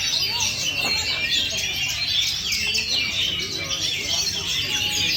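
Oriental magpie-robin (kacer) singing a continuous stream of rapid, varied chirps and whistles.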